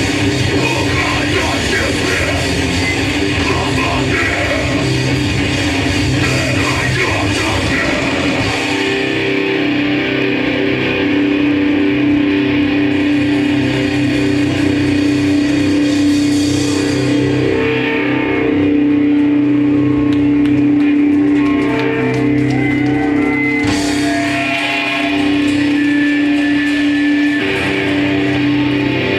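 Live hardcore punk band playing loud distorted electric guitar, bass and drums. About nine seconds in, the full drum-driven part gives way to held, ringing guitar notes.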